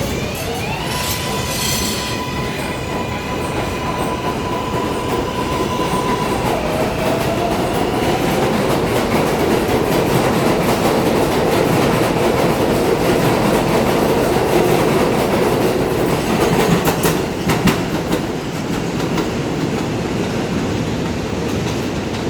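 New York City subway train running on the rails with a steady rumble and wheel clatter. Its electric motors give a whine that rises in the first second, holds steady, drops about six seconds in and starts climbing again. A few sharp clacks come from the wheels over rail joints around the 17-second mark.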